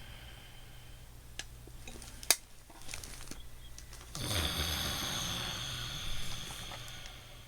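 A long, loud breath through the nose about four seconds in, lasting around two and a half seconds, as part of slow tai chi breathing. A single sharp click comes shortly before it.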